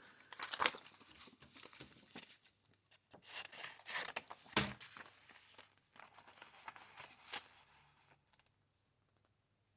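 Paper being cut and handled, with irregular rustling, crinkling and snipping that stops about eight seconds in.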